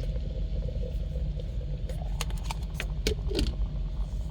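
Joulle electric kettle with food boiling inside: a steady low bubbling rumble, with a quick run of pops and clicks about halfway through.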